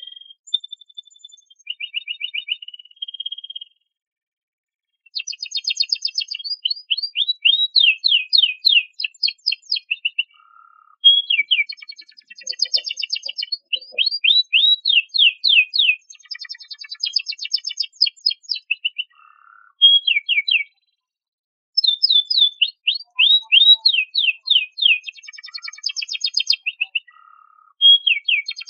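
Domestic canary singing a long song of rapid trills and fast repeated sweeping notes, in phrases broken by a few brief pauses.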